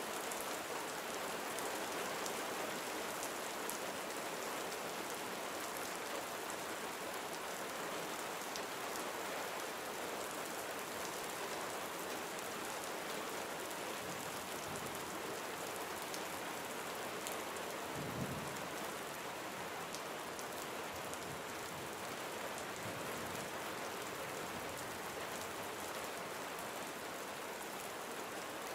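Gentle steady rain falling on surfaces, an even patter of drops, with a brief low thump about two-thirds of the way through.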